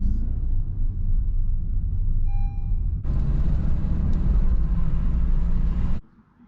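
Steady low rumble, like road noise or wind on the microphone, with a short beep about two and a half seconds in; it cuts off suddenly near the end.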